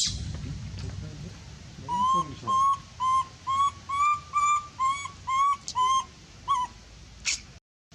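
An animal making a run of about a dozen short, whistle-like calls, two or three a second, then one sharp high squeal near the end.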